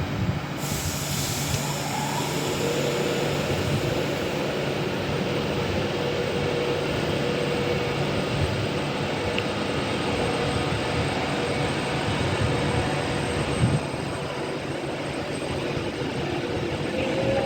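Class 390 Pendolino electric train pulling away, a steady rumble of wheels with a steady whine from its electric traction equipment coming in about two seconds in.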